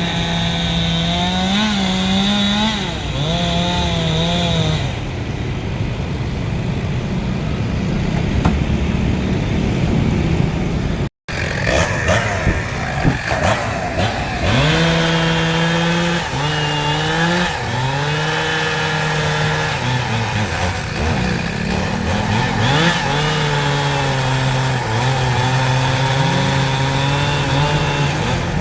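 Chainsaw running at high revs while cutting into a large tree, its pitch dipping and recovering again and again as the chain loads up in the wood. The sound cuts out abruptly for an instant about eleven seconds in.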